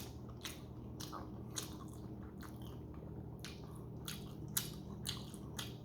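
Close-up mouth sounds of someone chewing a har gow shrimp dumpling: soft wet smacks and clicks about twice a second.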